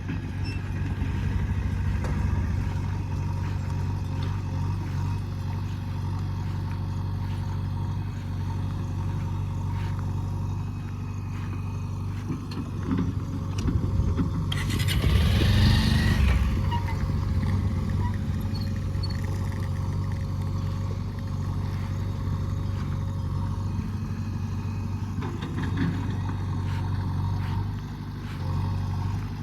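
Diesel engine of earthmoving machinery running steadily. About halfway through, a louder rushing, scraping noise lasts about two seconds.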